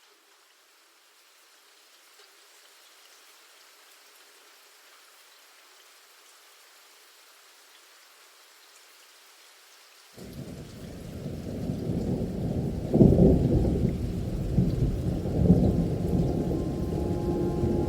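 Rain falling as a faint steady hiss. About ten seconds in, a deep rumble of thunder comes in and swells, peaking twice near the end.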